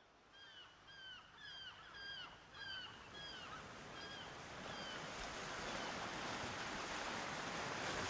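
Birds calling, a run of short falling calls about two a second that fade out about five seconds in, over a wash of sea surf that grows steadily louder.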